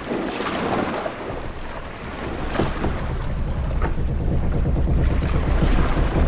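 Ship-at-sea ambience: waves washing and splashing against a ship's hull, with wind. There is a large wash in the first second, a few short knocks, and a low rumble that builds toward the end.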